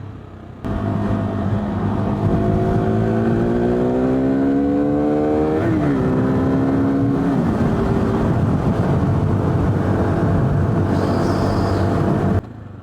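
KTM 390 Duke's single-cylinder engine pulling hard, its pitch rising steadily, then dropping sharply twice in quick succession as gears change, then running steadily, with heavy wind noise over the microphone. The sound comes in abruptly just after the start and cuts off near the end.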